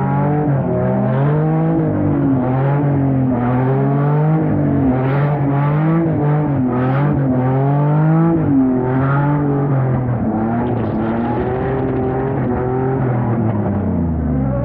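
A car engine revving up and down again and again, its pitch rising and falling in quick swells, then dropping away sharply near the end as it comes off the throttle.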